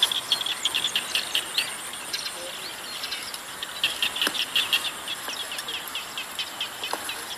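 Small birds chirping in quick runs of short high notes, thinning out for a moment about halfway through, over a thin steady high whine.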